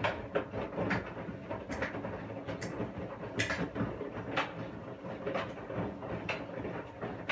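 Washing machine running through its wash cycle: a steady motor hum with knocks and clunks from the turning drum about once a second.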